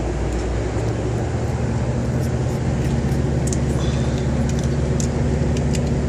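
Motor vehicle engine running steadily with a low hum that grows slightly stronger about a second in, with light clicks and rattles over it.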